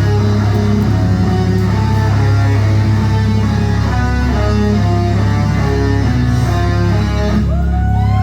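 Live rock band playing loud, with distorted electric guitars over bass and drums.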